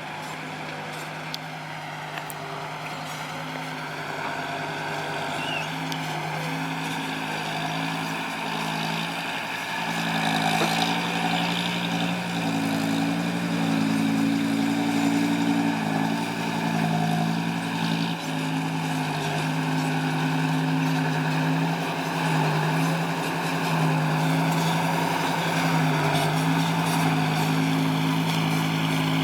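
Heavy diesel engine of earthmoving machinery running under load, growing louder about ten seconds in and staying loud, its note dipping briefly and wavering as the load changes.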